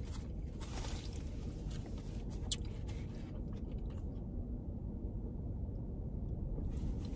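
Quiet chewing and eating sounds over a steady low hum in a car's cabin, with a few light clicks, the clearest about two and a half seconds in.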